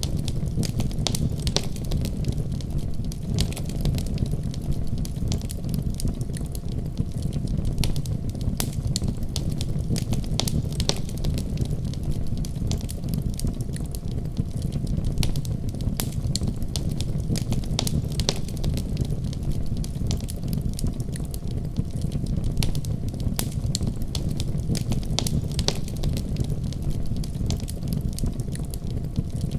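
Wood fire burning with a steady low rumble and frequent sharp crackles and pops throughout.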